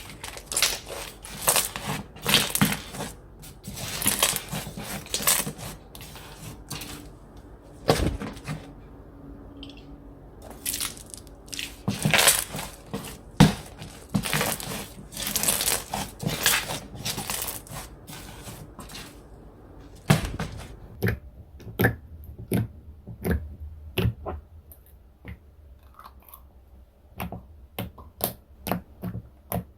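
Textured slime squeezed, stretched and pressed by hand, crunching and crackling in dense runs. About twenty seconds in it turns to sparser, sharper separate clicks and pops.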